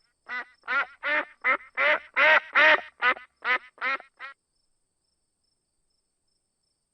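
Duck quacking: a run of about eleven quacks, two or three a second, that stops about four seconds in.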